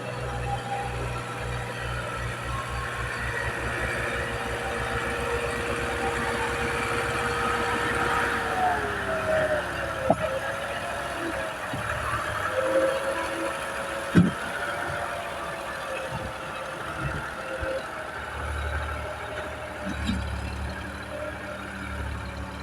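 Tractor engine working under load pulling a loaded trolley, its low firing beat speeding up over the first several seconds, with a whine that drops in pitch about eight to ten seconds in. A few sharp knocks sound, the loudest about fourteen seconds in.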